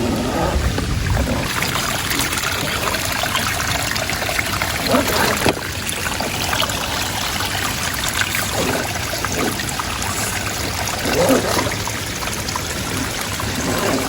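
Floodwater running steadily with trickling and splashing.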